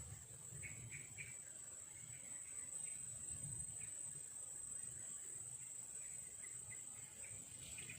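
Faint insect chorus: a steady high-pitched drone with scattered short chirps over it.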